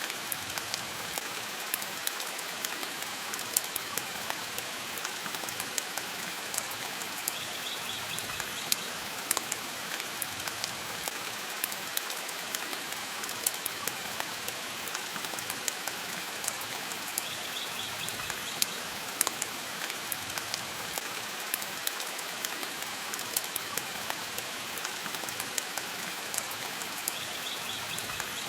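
Steady rain hiss mixed with the frequent sharp crackles and pops of a wood fire burning in a fireplace.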